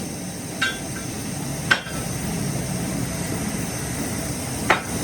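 Three sharp metal knocks, like hammer blows on steel, with a brief ring after each, about half a second in, near two seconds and near the end. A steady workshop machine hum runs underneath.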